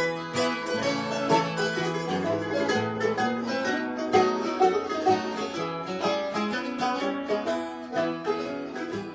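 Acoustic bluegrass picking: plucked string instruments play an instrumental passage, with a quick run of picked notes over steady chords and no singing.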